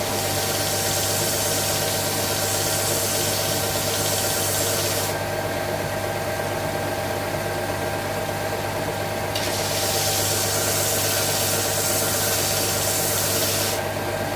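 A workshop power tool running steadily, with two spells of wood being flattened on it, the first about five seconds long and the second starting about halfway through and lasting about four seconds.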